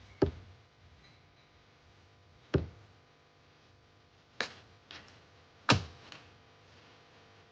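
Thrown knives striking the target: four sharp thunks a second or two apart, the third and fourth each followed by a fainter knock.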